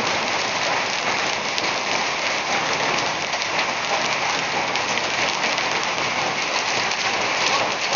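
Heavy thunderstorm rain mixed with hail pelting a paved road and roadside vegetation: a steady, dense hiss with many small ticks of impacts.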